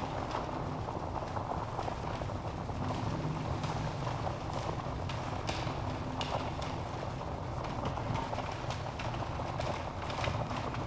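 Wood fire burning in a fireplace: a steady low rush of flames with irregular crackles and sharp pops from the logs.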